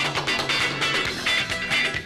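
Live band music: an instrumental passage between sung verses, with strummed guitars keeping a steady, quick rhythm.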